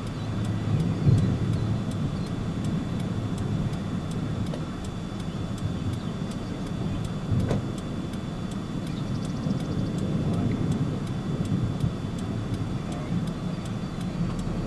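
A steady low rumble with a faint, thin high tone held above it.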